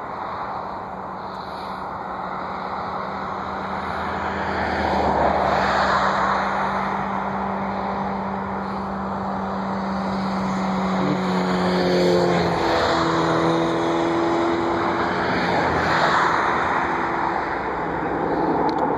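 Motor traffic passing one vehicle after another, the noise swelling and fading in waves, with a steady hum that drops in pitch about twelve seconds in.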